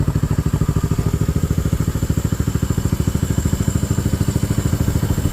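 Honda CB350's air-cooled parallel-twin engine idling steadily, with an even, quick exhaust pulse.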